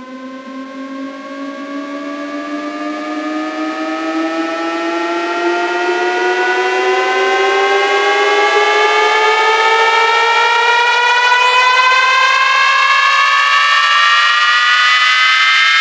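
Electronic siren-like riser effect from a DJ bass-check track: a buzzy pitched tone that swells in and glides slowly upward in pitch, with a second tone climbing at a different rate layered over it.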